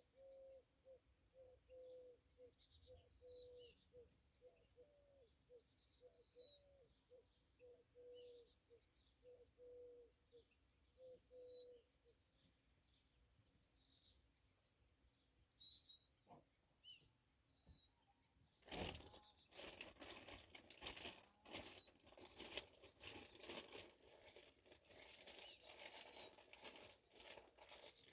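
Small birds chirping, with a low note repeated about twice a second for the first twelve seconds. From about eighteen seconds in, close rustling and clattering handling noise takes over and becomes the loudest sound.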